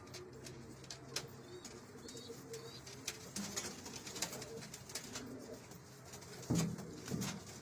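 Domestic pigeons cooing, with scattered light clicks and a louder low burst about six and a half seconds in.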